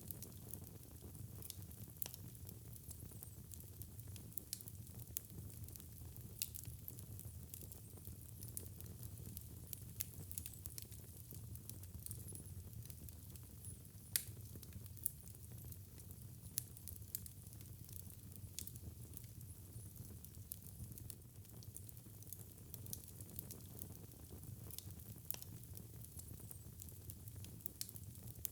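Wood fire burning in a fireplace: a low steady rumble of the flames with scattered sharp crackles and pops, one louder pop about halfway through.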